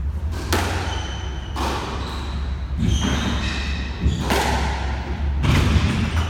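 Squash rally: the ball is struck hard about five times, roughly every second and a quarter, each sharp crack ringing off the court walls, with short high squeaks in between.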